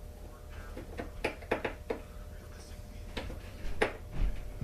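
Scattered sharp clicks and light knocks of hand tools and parts being handled during a chainsaw teardown, irregularly spaced, over a low steady hum.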